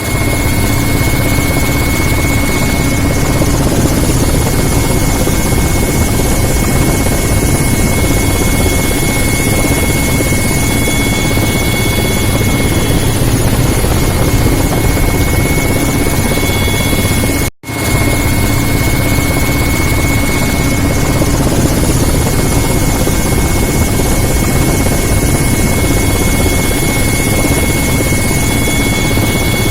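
Firefighting helicopter running steadily close by: a fast, even rotor chop over a steady high whine. The sound drops out for an instant a little past halfway.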